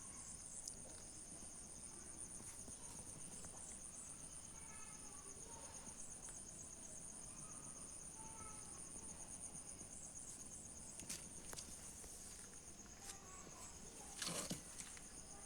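Crickets chirping in a steady, continuous high-pitched trill. There is a short knock or rustle near the end.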